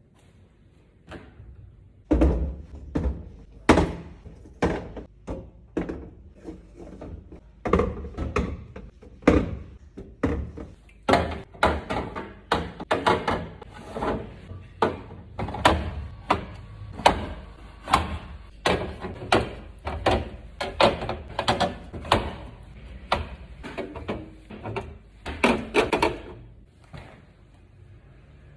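Containers and groceries being set down and arranged while a refrigerator is stocked: a long run of irregular knocks and clunks, about one or two a second.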